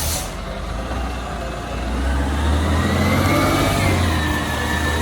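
Recycling truck's engine running and revving, with a whine that comes in about two seconds in and wavers in pitch.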